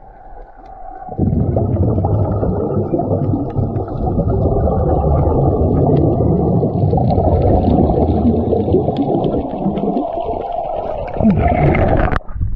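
Muffled underwater rumbling and rushing of water picked up by a camera held underwater while diving. It starts about a second in, runs loud with nothing above a dull mid pitch, dips briefly near the end and cuts off abruptly.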